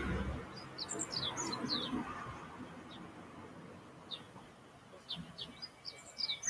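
Small birds chirping in short, high, quick downward-sliding notes, in one cluster about a second in and another from about four seconds on. Under them, a low rushing noise is loudest at the start and fades away over the first two seconds.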